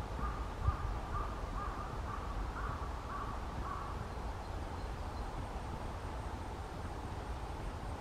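A bird calling in a quick series of short, fairly low-pitched notes, about two a second, stopping about halfway through, over a low wind rumble.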